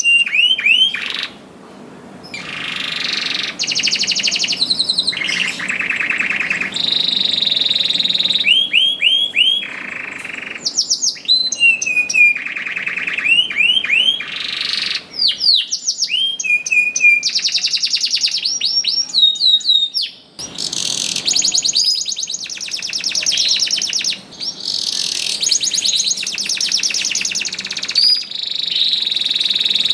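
Domestic canary singing a long, loud, continuous song: stretches of very rapid trills alternate with runs of repeated sweeping whistled notes, with a brief break about twenty seconds in.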